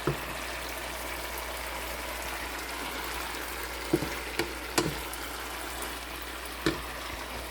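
Sliced bitter gourd and salted dried fish sizzling steadily as they fry in a pan, with a few sharp knocks of a cooking utensil against the pan about four to five seconds in and again near the end.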